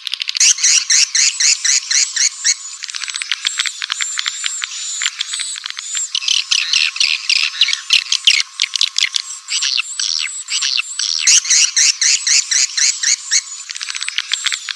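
Swiftlet lure call: a recording of swiftlets twittering in dense, rapid chirps, clicks and short trills, thin and high with nothing in the low range. It is the calling sound played to draw swiftlets into a swiftlet nesting house.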